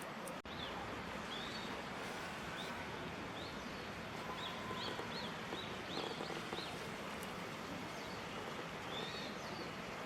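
Outdoor ambience: a steady background hiss with a small bird chirping repeatedly in short high notes, thinning out in the later part.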